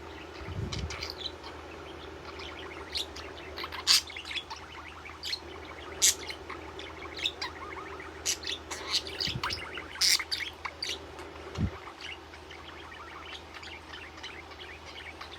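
Pet budgie chirping and tweeting in a rapid string of short, sharp chirps, loudest about four, six and ten seconds in, over a steady low hum with a few soft low thuds.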